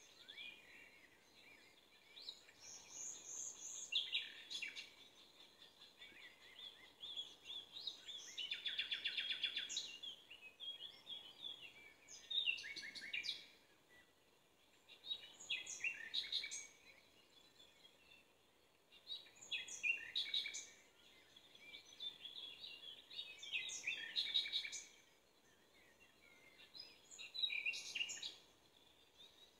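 Songbirds singing in the background, a phrase of high chirps every few seconds, with a buzzy trill about nine seconds in.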